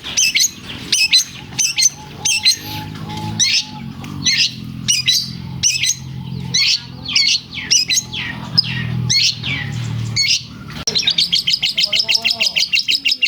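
Long-tailed shrike (cendet) singing loudly: a run of sharp chirps and squawky notes with lovebird phrases worked into its song, breaking into a rapid trill of about nine notes a second near the end. A low hum sits under the middle part.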